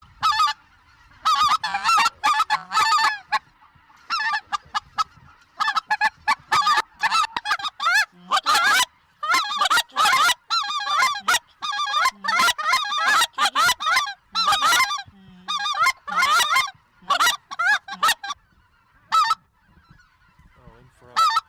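Goose honking: loud, rapid honks and clucks, one after another in quick runs, thinning to a couple of single honks near the end.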